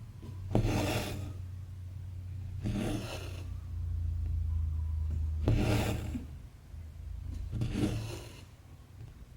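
Cross-stitch thread pulled through the fabric four times, each pull a short rasping swish lasting under a second, a couple of seconds apart, over a steady low hum.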